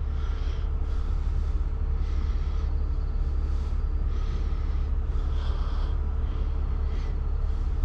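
Steady low rumble of an idling vehicle engine, with faint hiss coming and going above it.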